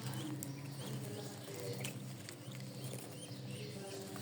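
Pet bird giving short, high chirps, repeated irregularly, over a steady low hum.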